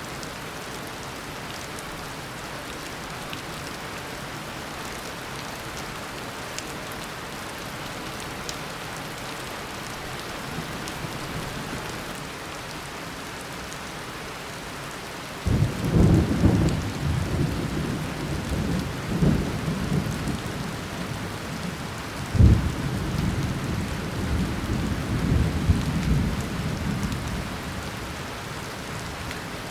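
Tropical rainstorm: a steady downpour of rain, with thunder breaking in suddenly about halfway and rumbling on, a second loud clap a few seconds later, then dying away near the end.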